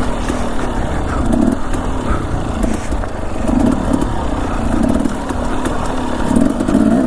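Dirt bike engine pulling at low speed over loose rocks on a trail, its note swelling and easing in short throttle bursts about once a second.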